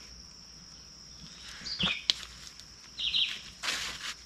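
Outdoor ambience: three short bird chirps over a faint, steady high-pitched whine, with a single click just after two seconds and a brief rustle near the end.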